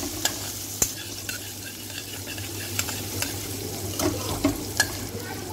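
Minced ginger and garlic sizzling in hot oil in a steel kadhai, stirred with a metal spatula that clicks against the pan at irregular intervals, about once a second. A low steady hum runs underneath.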